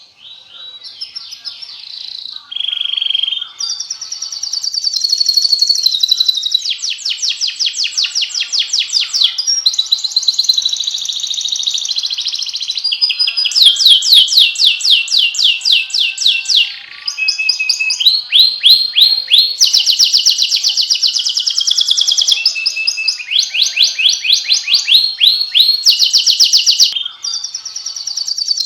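Domestic canary singing a long, continuous song of rapid trills and rolls: each phrase is a fast run of repeated notes lasting a second or two, and the pitch shifts from phrase to phrase. The song starts softer and swells to full volume within the first few seconds.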